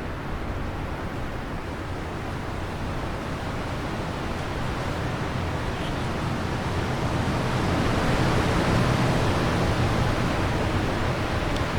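Wind blowing steadily, swelling into a stronger gust about eight to ten seconds in, with a faint bird chirp or two.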